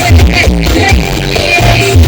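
Loud music with heavy, pulsing bass played through a large mobile carnival sound system.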